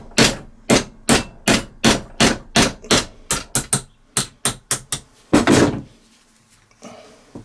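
Hammer tapping a steel centre punch set on the end of a two-stroke crankshaft, driving an old crank bearing off against the jaws of a vise: a steady run of sharp metal taps, about three a second and quickening slightly, that stops after about five seconds, followed by a brief longer noise.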